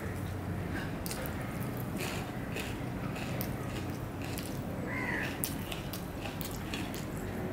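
Close-miked chewing of a mouthful of spiced rice, a run of wet mouth clicks and smacks. A crow caws once about five seconds in, with a fainter caw under a second in.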